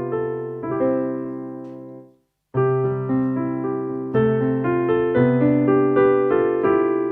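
Stage piano tone on a Casio AiX digital keyboard, played as chords that ring and decay. About two seconds in the notes die away into a brief silence, then new chords are struck.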